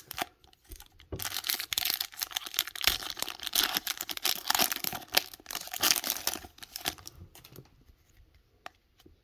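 Foil Pokémon booster pack wrapper being torn open and crinkled: dense crackling from about a second in, easing off after about seven seconds into a few faint rustles and clicks.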